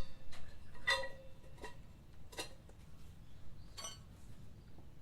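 Metal tools or parts clinking: about five sharp, ringing clinks at irregular intervals, the first ones loudest.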